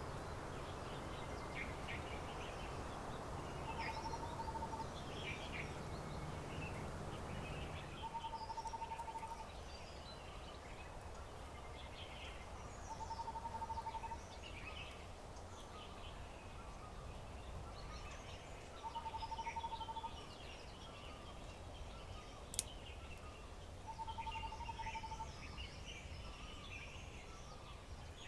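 Several birds chirping and calling, with one bird repeating a short, steady whistled note about every five seconds. A low rushing noise eases off about eight seconds in, and a single sharp click comes about three-quarters of the way through.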